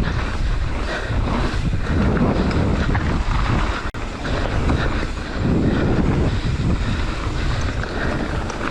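Wind rushing over a ride-along camera's microphone as a mountain bike descends a trail at speed, with the rumble of the bike over the ground underneath.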